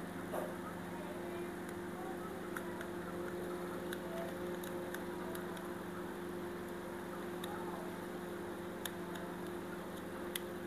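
Steady low electrical hum with a few faint, sharp clicks and taps scattered through it, typical of small plastic remote-control parts being handled on a workbench.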